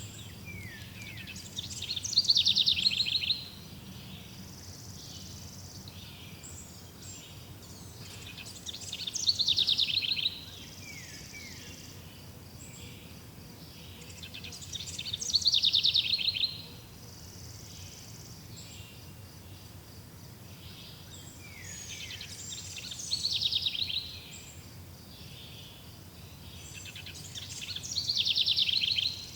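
A songbird repeats the same song phrase five times, about every six seconds. Each phrase is a quick run of notes that falls in pitch, over a faint steady background of insects.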